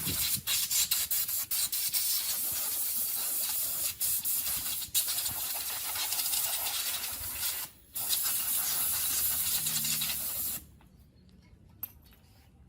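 A steady hiss with several short breaks, cutting off suddenly about ten and a half seconds in.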